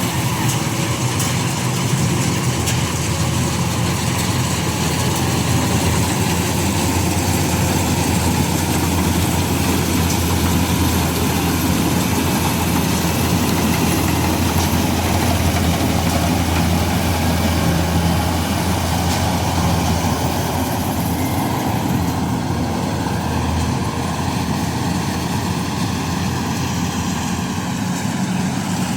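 Combine harvester's diesel engine running at a steady, constant speed: a loud, even low drone with a noisy rush of machinery above it.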